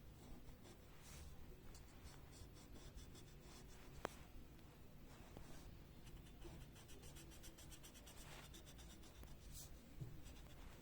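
Faint scratching of a colouring tool on paper, in runs of quick back-and-forth strokes, with one sharp click about four seconds in.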